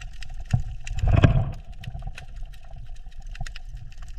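Underwater reef ambience: many scattered sharp clicks and crackles over a low rumble, with a louder low whoosh about a second in.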